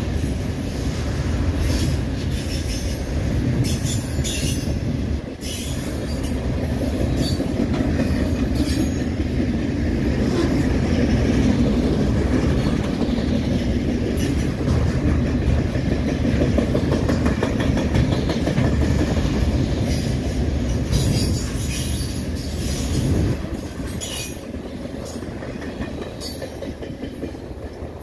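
Freight train of autorack vehicle-carrier cars rolling past close by: a steady rumble of steel wheels on rail, broken by brief sharp high-pitched noises from the wheels. The sound fades away as the end of the train passes, about 23 seconds in.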